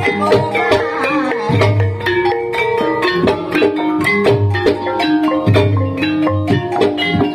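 Ebeg/barongan accompaniment music: an ensemble of struck tuned mallet percussion playing quick running notes over a recurring low drum beat.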